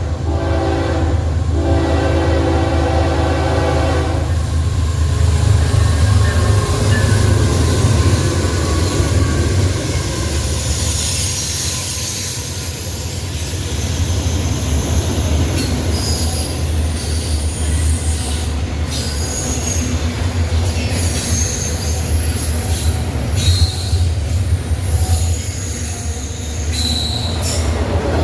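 Locomotive horn sounding a chord, two blasts in the first four seconds, then a passing train's steady low rumble with intermittent high-pitched wheel squeal.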